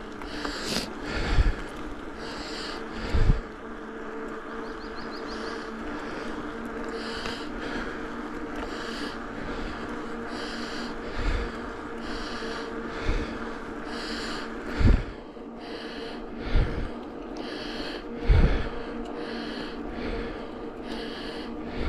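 Cyclist breathing hard while pedalling, roughly one breath a second, over a steady hum from the ride, with a few short low thumps.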